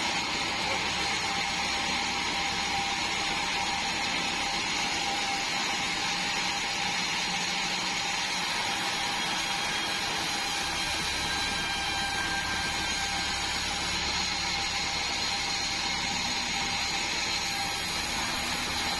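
Band sawmill running steadily, its blade and motor giving a constant whine over a noisy hum.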